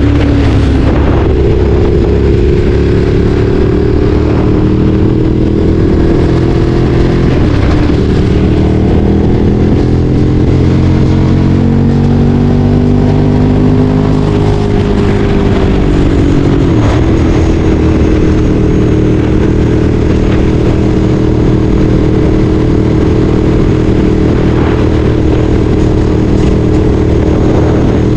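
Ducati Streetfighter 848's 849 cc L-twin engine running under way, its pitch gliding slowly up and down. About 17 seconds in the pitch dips sharply, then holds steady.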